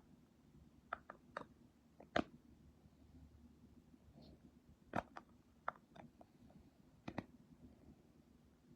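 A few faint, scattered clicks and light taps in a small room. The sharpest comes about two seconds in, with others about a second in, near the middle and near the end.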